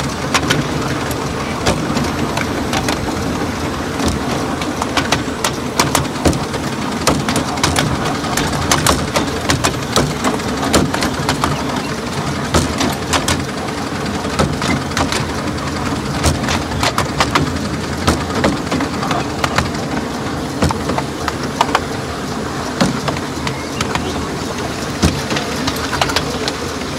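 Miniature-railway train running along the track: a steady rumble and rattle from the moving carriage, dotted with frequent irregular clicks and knocks from the wheels on the rails.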